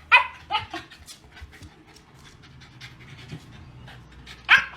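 A dog giving short high yelps at the start and again near the end, panting in between.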